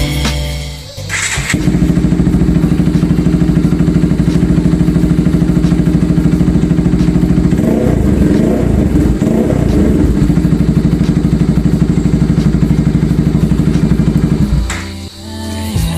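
Bajaj Pulsar RS200's single-cylinder engine idling through an aftermarket SC Project silencer, with a few quick throttle blips about halfway through before it settles back to idle.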